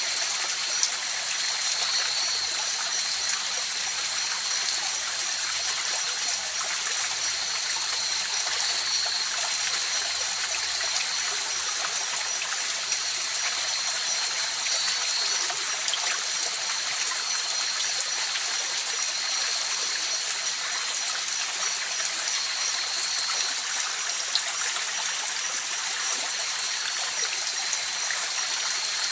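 River water flowing in a steady, unbroken rush. A thin high tone holds steady above it.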